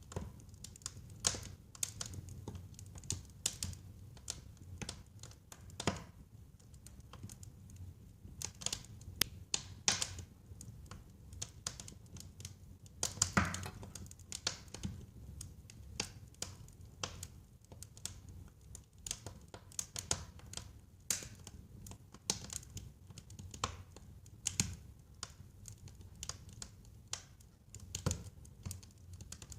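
Wood fire burning in a fireplace, crackling and popping in irregular sharp clicks over a faint low rumble, with one louder pop about halfway through.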